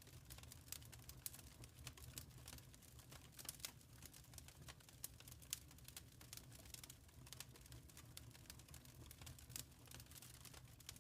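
Wood fire crackling in a fireplace, quiet and irregular small pops and snaps over a low rumble.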